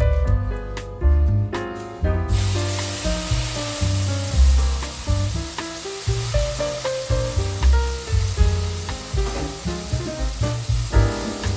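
Food frying in a hot pan: a sizzle that starts suddenly about two seconds in and keeps on steadily, with gentle background music.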